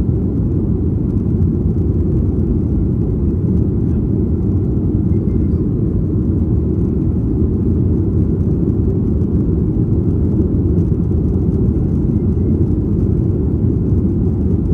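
Steady low roar of a Boeing 737-800's CFM56 jet engines and airflow, heard inside the passenger cabin.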